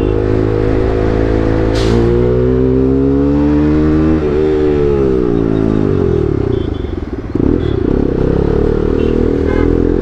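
Bajaj Pulsar NS200's single-cylinder engine running through an Akrapovic full-system exhaust under way, its pitch rising as it pulls, dropping sharply about four seconds in at a gear change, then falling as the throttle eases before it picks up again near seven seconds. A single sharp crack about two seconds in.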